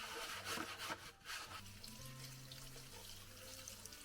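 Water running from a sink tap, splashing, as the dishwasher's filter and small parts are rinsed, heaviest in the first second and a half and lighter after.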